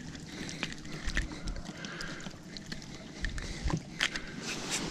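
Scattered clicks and knocks from a small bass being handled and flopping against a plastic kayak, with a couple of sharper knocks near the end.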